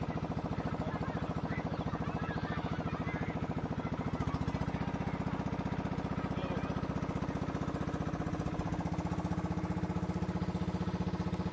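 Boat engine running steadily with a fast, even chugging. Its note shifts slightly about four seconds in and again about two-thirds of the way through.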